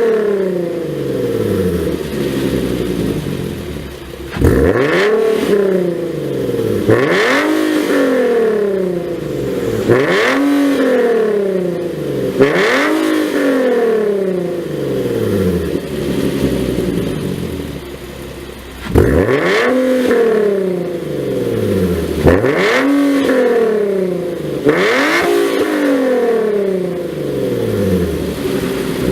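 Infiniti G37 coupe's 3.7-litre V6 through an aftermarket WABBP exhaust tuned for a mid-to-high tone, blipped about seven times, each rev rising quickly and then falling back toward idle. There is a longer stretch at idle around the middle.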